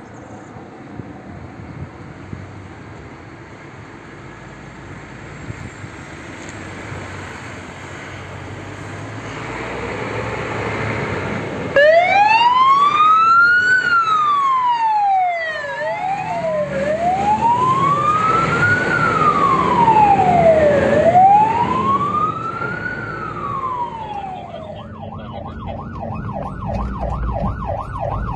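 Fire engine under way, its engine and road noise building up. About twelve seconds in its siren starts with a slow wail that rises and falls three times, then switches near the end to a fast warble.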